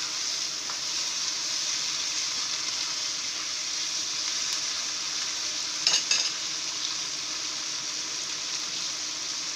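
Sliced beef and onions sizzling steadily in a non-stick wok while a spatula stirs them. A short clatter about six seconds in.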